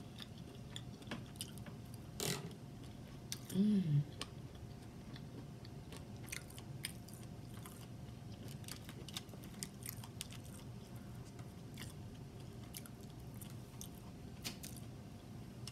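A person eating seafood boil close to the microphone: quiet chewing and wet mouth sounds with scattered small clicks, and a short 'mm' of enjoyment about four seconds in.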